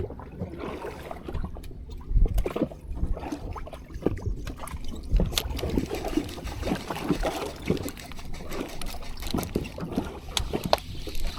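Water sloshing and lapping against the hull of a small fishing boat at sea, with irregular knocks and low thumps.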